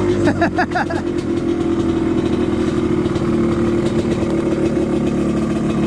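Two-stroke dirt bike engine idling steadily.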